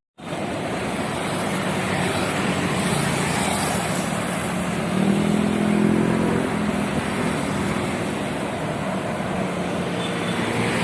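Roadside traffic noise with vehicles passing steadily. A deeper engine hum swells about halfway through and fades.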